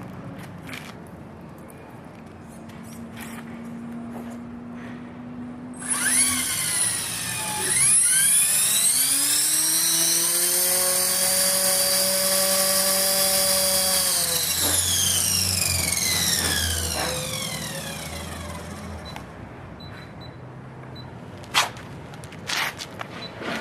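Align T-Rex V2 radio-controlled helicopter's electric motor and rotor spooling up. A whine rises about six seconds in, holds steady for a few seconds, then falls away as the rotor winds down. A few sharp clicks come near the end.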